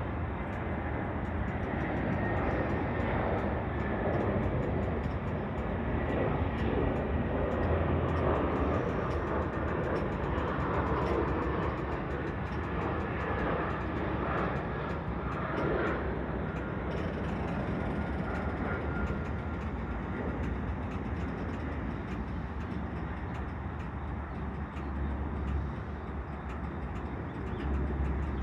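Freight train cars rolling past: a steady rumble of wheels on the rails, with a faint high-pitched tone briefly near the start and again about two-thirds of the way through.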